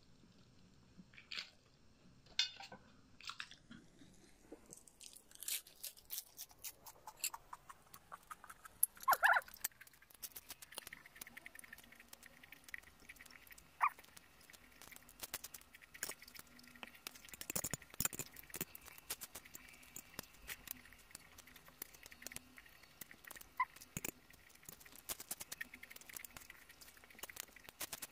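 Close-miked eating sounds: chewing of noodles and crisp lettuce leaf, with many small wet clicks and lip smacks.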